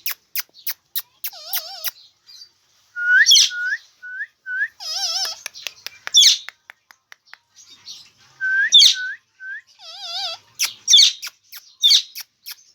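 Indian ringneck parrot calling and whistling. A quick run of sharp clicks opens it, then come warbling whistles with a wavering pitch, groups of three or four short rising chirps, and a few shrill high calls. The clicks come again near the end.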